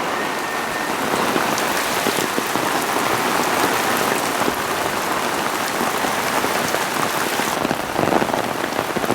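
Steady rain falling, a dense hiss of many small drop hits.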